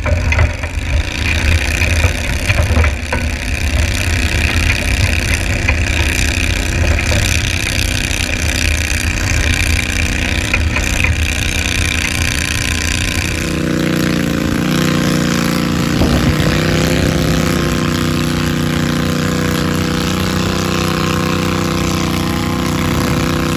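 Garden pulling tractor's engine running hard. A little over halfway through its note changes abruptly, and it then holds a steady, even pitch.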